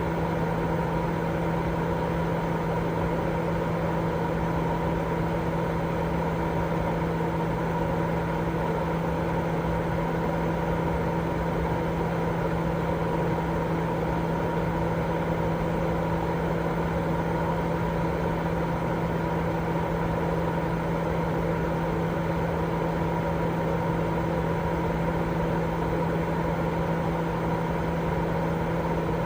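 Continuous, unchanging white noise, fuller in the low and middle range than the top, with a steady low hum running through it.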